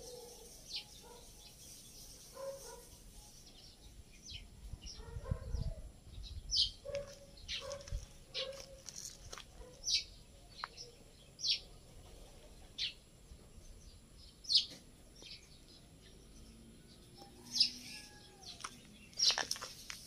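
Birds calling: short, high chirps that sweep sharply downward, repeated irregularly every second or so, with some short lower notes in the first half.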